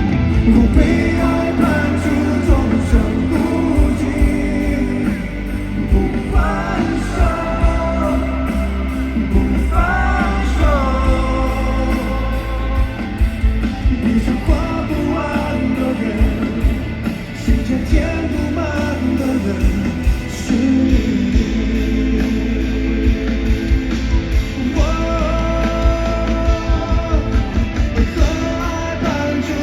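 Live rock band music with drums, a voice singing long held notes with vibrato over it several times.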